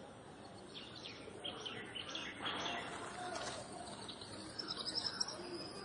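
Birds chirping over a low outdoor hum, with a quick run of high chirps near the end.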